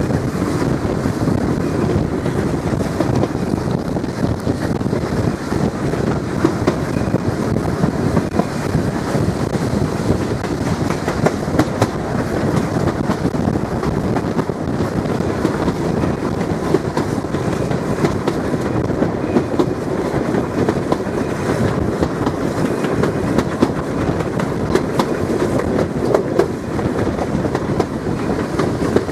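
Passenger train running along the track: a steady rumble of the wheels on the rails, with irregular clacks as they cross rail joints.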